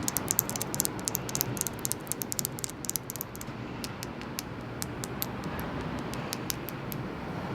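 Rapid light tapping on a small seashell, thought to be a miniature oyster shell: quick sharp clicks, many a second at first and then sparser, over a steady hiss of ocean surf.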